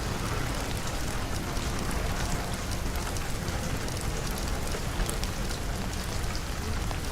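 Steady rain falling, an even hiss of rain with many small drop ticks.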